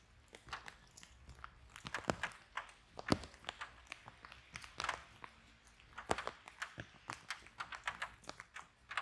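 Wood fire crackling in a fireplace: irregular sharp pops and snaps over a faint hiss, with the loudest pop about three seconds in.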